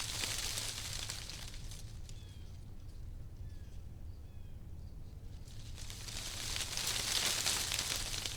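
Wind gusting through tree leaves: a rustling hiss that swells at the start, dies down, and swells again louder near the end. A few faint short bird chirps come in the lull between the gusts.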